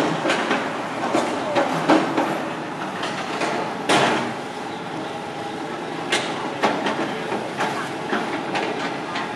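Hitachi ZX210 long-reach excavator at work: steady engine and hydraulic noise with irregular metallic clanks, the loudest about four seconds in.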